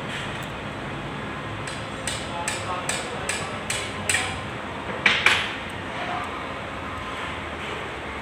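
Hammer tapping on metal during engine repair work: a run of about seven light, quick taps, then two harder strikes close together about five seconds in.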